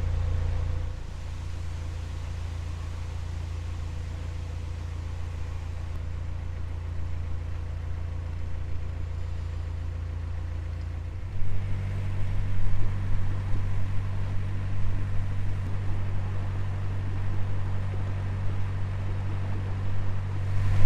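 Narrowboat's diesel engine running steadily under way. About eleven seconds in the engine sound suddenly gets louder and fuller, with a gusty low rumble from strong wind.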